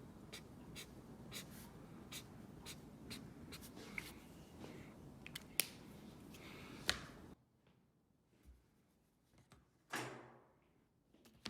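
Pencil and straightedge working on a drawing board: irregular light taps and scratches, roughly two a second, over a steady hiss that cuts off abruptly about seven seconds in, then one longer scrape near the end.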